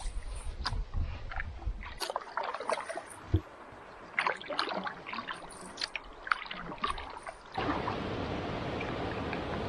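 Canoe paddling: irregular splashes and drips of water as the paddle dips and lifts. About three-quarters of the way in, it changes abruptly to a steady hiss like wind.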